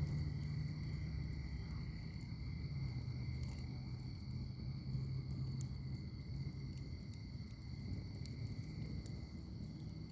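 Wood fire in a fire pit crackling, with scattered sharp pops over a steady low rumble of the flames. A steady high-pitched tone runs underneath.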